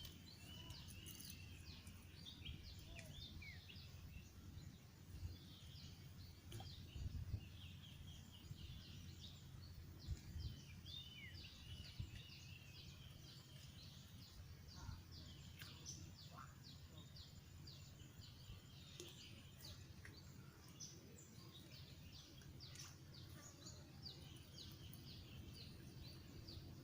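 Faint birdsong, many short chirps and twitters, over a low steady rumble of wind and background noise. A few soft knocks come through around a quarter and a third of the way in.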